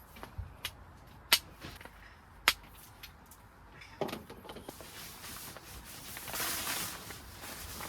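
A few short sharp clicks or knocks, then a rustling noise from about four seconds in that grows louder near the end.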